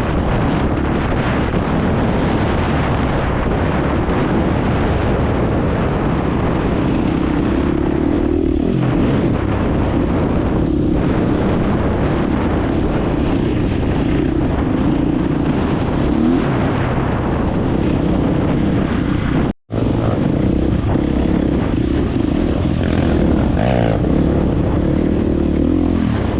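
Dirt bike engine running steadily while riding, mixed with heavy wind noise on the microphone. The sound cuts out completely for a split second about twenty seconds in.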